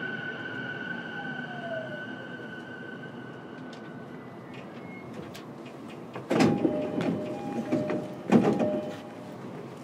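Inside a JR East E233 series electric train car: the electric motor whine dies away as the train comes to a stop. About six seconds in, the doors slide open with a loud rush and thump and a chime of two alternating tones, and a second loud thump follows about two seconds later.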